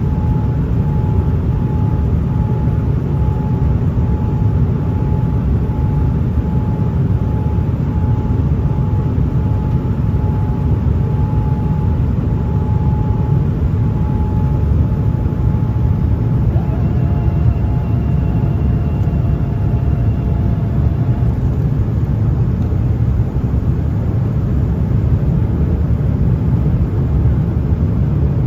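Steady low noise of an airliner cabin in flight, with a faint thin tone pulsing through the first half and other faint tones briefly a little past halfway.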